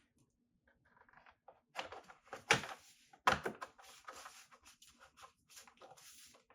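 A run of light knocks and clatters, like things being handled, with two sharper knocks close together near the middle.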